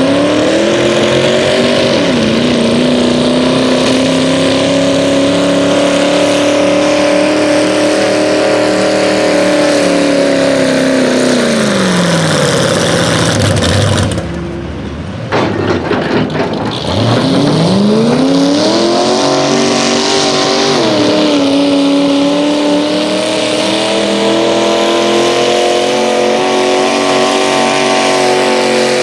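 Pulling vehicle's engine at full throttle on a sled pull, its pitch climbing and then holding high before winding down about halfway through. After a brief quieter gap an engine revs up again and runs hard to the end, with a short dip in pitch partway.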